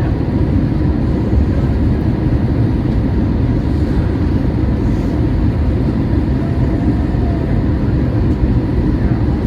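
Steady cabin noise inside a Boeing 737-800, a deep even rumble from its CFM56-7B jet engines and the airflow, with a faint steady whine running through it.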